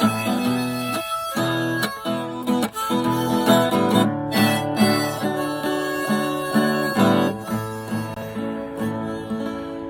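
Acoustic guitar strumming chords with a harmonica over it, an instrumental outro with no singing, dying away near the end.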